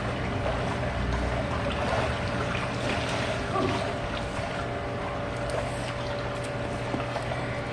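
Swimming pool water sloshing and splashing in an irregular way, over a steady low hum.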